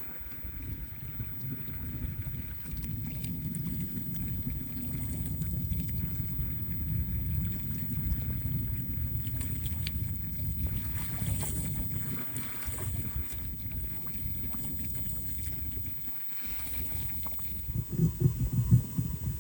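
Strong wind buffeting the microphone in uneven gusts, with waves on the lake beneath it; the gusts drop off briefly and then hit hardest near the end.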